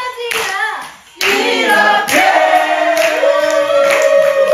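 People clapping in time, then from about a second in several voices singing together in long held notes, with claps still marking the beat.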